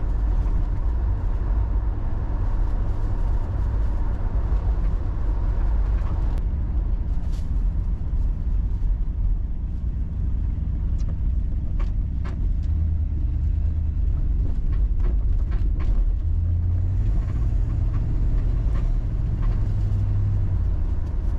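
1967 Buick GS 340's V8 engine running under way, with road noise, heard from inside the moving car as it cruises. The low engine drone swells a little about halfway through and again near the end, with a few light clicks and rattles from the car.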